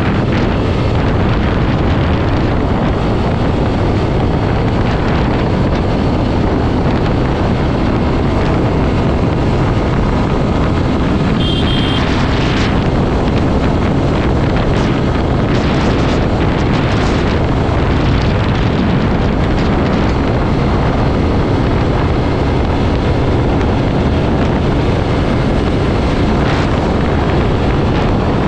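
Steady wind rushing over the microphone of a motorcycle riding at speed, with road and vehicle noise underneath. A brief high double beep sounds about twelve seconds in.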